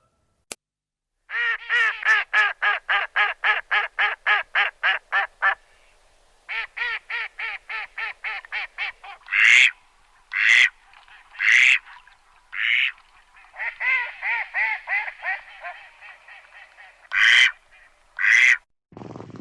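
Ducks quacking: two runs of rapid quacks, about four a second, then several single louder, harsher quacks about a second apart, another quick run, and two more loud quacks near the end.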